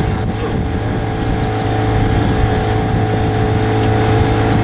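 Motorboat engine running at a steady speed, a constant low hum with a few steady higher tones over it.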